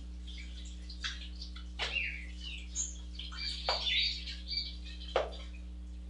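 Small birds chirping in short, quick calls, over a steady low hum, with three sharp knocks spread through it.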